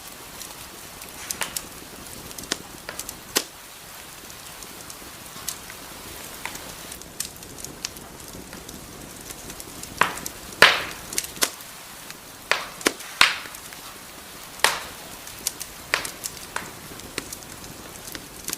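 Wood fire crackling in a fireplace: irregular sharp pops and snaps over a steady soft hiss, coming thicker and louder about halfway through.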